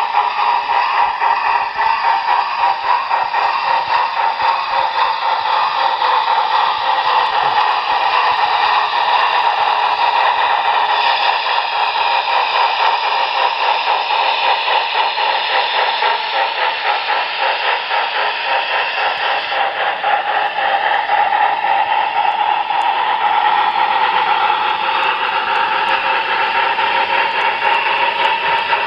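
Model Union Pacific 4-6-6-4 Challenger steam locomotive's sound system playing steady, rapid steam chuffing through a small, tinny speaker.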